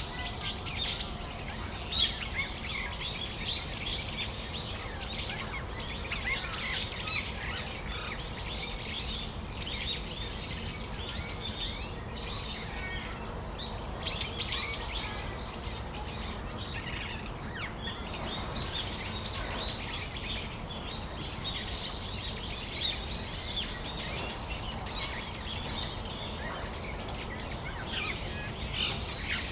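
Brown-eared bulbuls calling: many short, high-pitched calls overlapping continuously, with louder ones about two seconds in and about halfway through, over a steady low background rumble.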